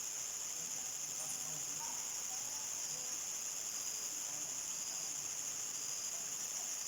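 Evening chorus of crickets: a steady, high-pitched continuous trilling that holds at an even level throughout.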